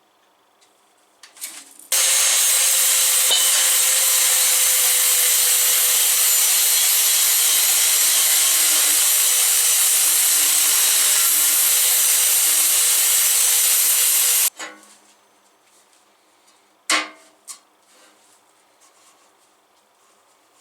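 A power tool cutting or grinding metal runs steadily for about twelve seconds, starting and stopping abruptly. A couple of sharp metallic knocks follow near the end.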